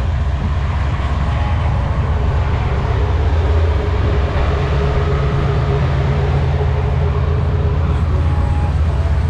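A vehicle engine's steady low rumble, with a faint higher hum above it.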